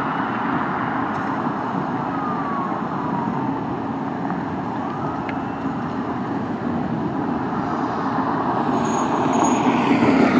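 Fire truck siren sweeping up and down, faint under steady road and engine noise, with the noise getting louder over the last couple of seconds.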